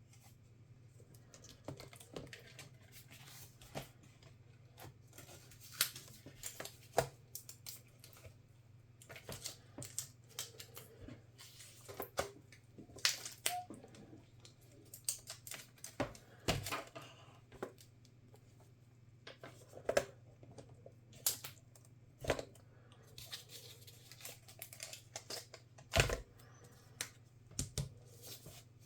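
Irregular small clicks, taps and light scraping of hands and small tools working on a laptop's plastic and metal parts, over a steady low hum.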